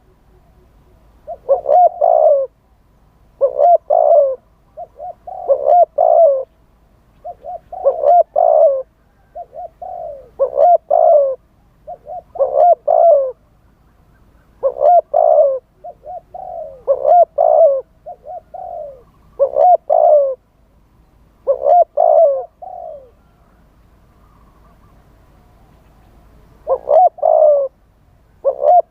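Spotted dove cooing: short phrases of a few coos, repeated about every two seconds, with a pause of a few seconds near the end.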